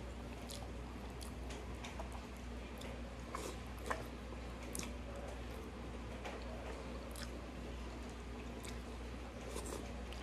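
Someone eating chicken and shrimp masala with rice by hand: chewing and wet mouth sounds, with fingers squishing the food on the plate, heard as scattered short clicks, one louder about four seconds in. A steady low hum runs underneath.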